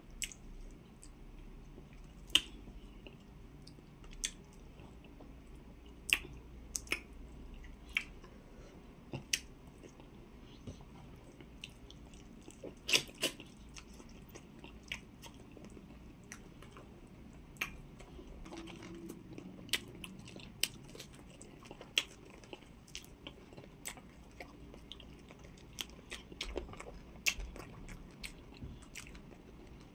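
Close-miked chewing and lip smacking as a mouthful of amala with slimy okra soup and chicken is eaten, with sharp wet mouth clicks at an irregular pace and a short cluster of them about halfway through.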